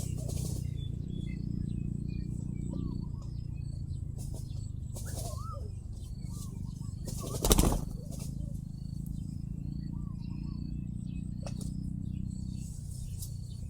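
Small birds chirping and a few short whistled calls over a steady low hum, with one brief loud flutter of wings about seven and a half seconds in.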